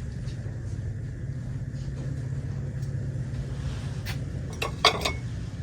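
Steady low rumble, with a few sharp clinks of store housewares knocking together about four to five seconds in.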